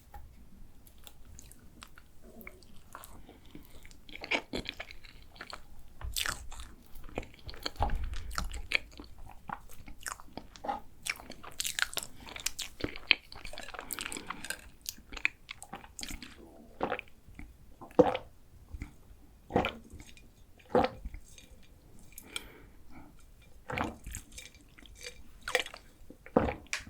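Close-miked eating: biting and chewing with irregular crisp crunches scattered throughout.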